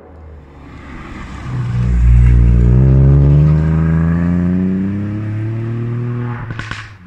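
Ford Fiesta ST's turbocharged 1.5-litre three-cylinder with a modified exhaust, revving up hard as the car accelerates out of a hairpin, then fading as it pulls away uphill. A short crackling burst comes near the end.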